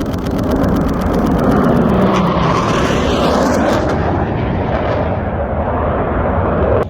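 A military jet flying past at an airshow, its loud engine noise swelling over the first couple of seconds and holding, then cutting off suddenly at the end. A rapid, even run of camera shutter clicks, a burst of shots, sounds over the first two seconds.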